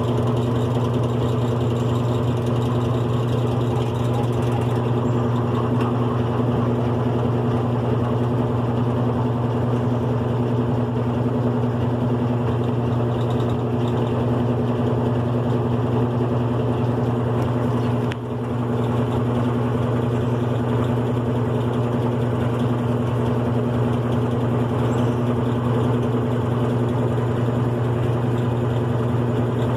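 GE Profile top-load washing machine running on a bedding load, its one-speed motor giving a loud, steady hum. The hum dips briefly about two-thirds of the way through.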